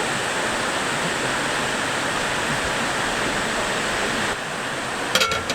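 Creek water rushing steadily. Just before the end comes a brief clatter of sharp clicks with a ringing tone.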